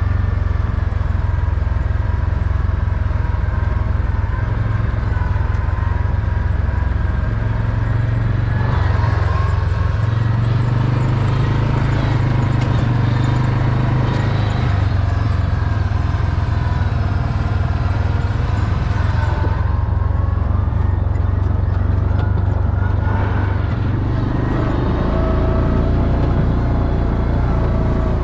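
4-wheeler (ATV) engine running steadily while riding, its note shifting with the throttle about nine seconds in and again near the end.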